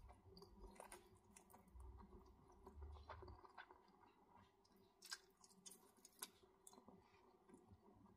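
Faint close-miked chewing of saucy black bean instant noodles, with soft wet clicks and smacks of the mouth; the sharpest clicks come about five and six seconds in.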